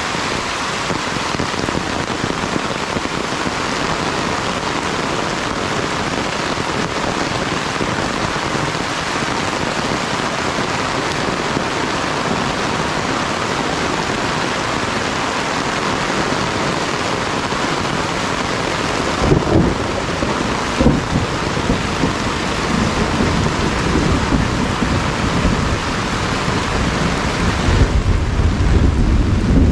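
Heavy rain falling steadily in a dense hiss, with low rumbles of thunder coming in about two-thirds of the way through and growing heavier near the end.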